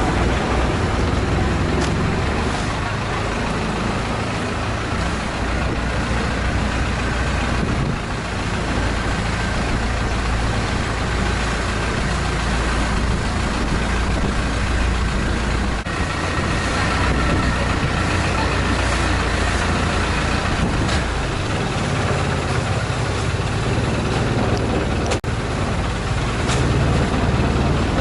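Long-tail boat's engine running steadily under way, a loud, even drone.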